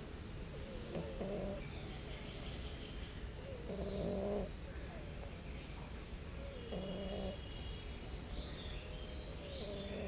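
Stray cats meowing softly: four short meows about three seconds apart, with faint bird chirps in the background.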